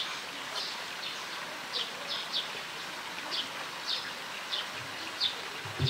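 Small bird chirping: short high notes, sometimes in pairs, repeating every half second to a second over a steady outdoor hiss.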